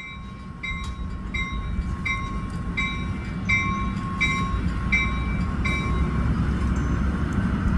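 Locomotive bell ringing about once every 0.7 s, nine strokes ending near the end, over the low rumble of the train's engine growing louder as it pulls out of the station.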